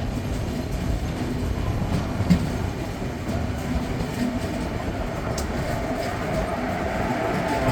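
Express passenger train pulling out of a station: steady rumble of wheels on the rails with a few sharp clicks over rail joints, and a faint steady whine that grows louder near the end.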